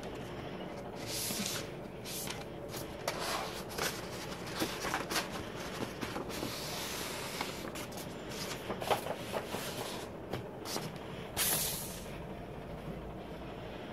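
Album packaging being handled and unwrapped: irregular bursts of rustling and crinkling with scattered clicks and taps, over a steady low background hum.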